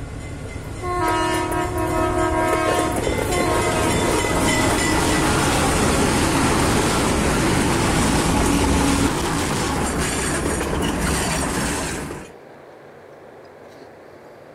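A train horn blows a sustained chord for about two seconds. Then a train passes at speed with a loud rumble and wheel clatter, with rattling clicks near the end. The sound cuts off abruptly about twelve seconds in, leaving faint outdoor ambience.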